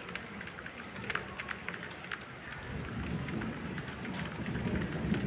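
Heavy rain falling, with many sharp drop ticks on a hard surface over a steady hiss. A low rumble of distant thunder builds through the second half.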